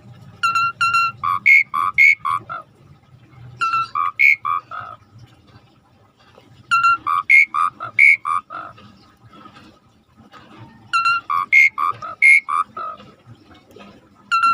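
Starling (jalak) song: a phrase of a few clear whistled notes followed by a quick run of harsh, pulsed notes, repeated four times about every three to four seconds. A faint low rushing of river water runs underneath.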